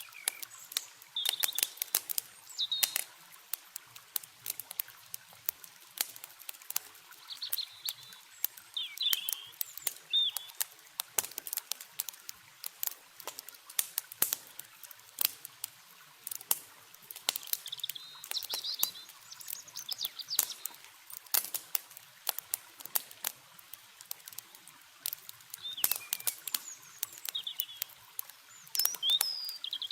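Wood campfire crackling, with dense sharp snaps and pops throughout. Songbirds chirp in short clusters of calls every few seconds over a faint steady hiss of flowing water.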